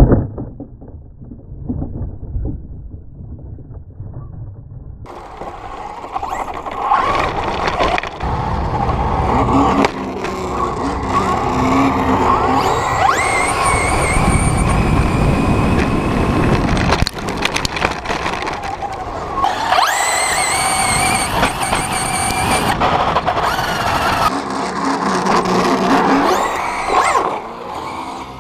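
Electric radio-controlled truck driving hard on pavement: its motor whine rises in pitch as it speeds up, over tyre rumble, rattling and scraping. The first few seconds are a muffled stretch of low rumble and clicks before the sound turns clear.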